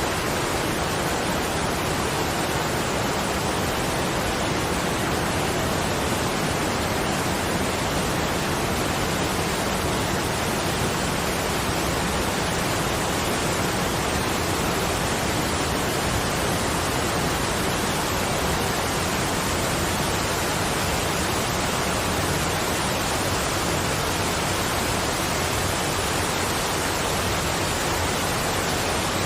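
Steady, even rush of falling water, with no chimes or other sounds standing out.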